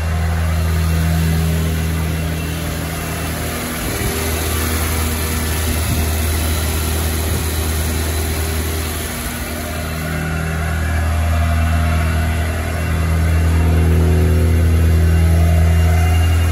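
1983 Volvo 240 Turbo's B21FT turbocharged four-cylinder engine idling steadily, heard through a stainless exhaust with a cherry bomb muffler.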